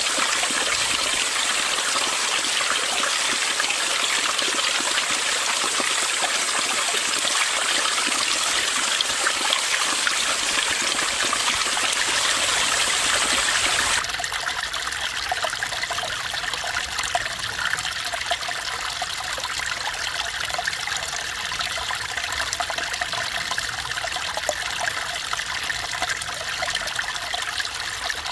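Mountain stream water trickling and babbling over rocks in a steady rush. About halfway through the sound changes abruptly to a slightly quieter, deeper flow with less hiss.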